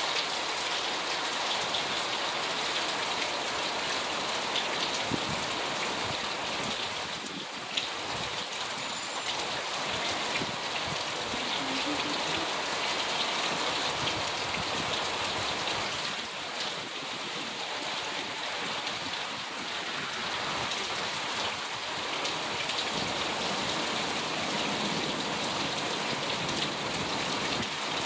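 Heavy rain falling steadily, a dense hiss of drops striking parked cars and the ground.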